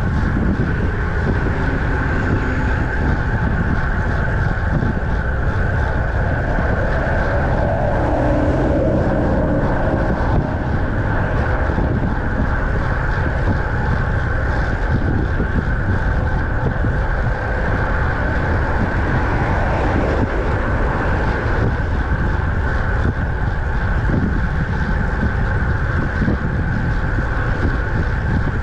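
Steady wind rushing over the microphone of a camera on a moving bicycle, with continuous road and tyre noise underneath.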